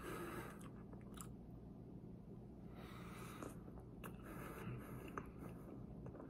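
Faint chewing of a mouthful of chocolate-glazed éclair, over a steady low hum.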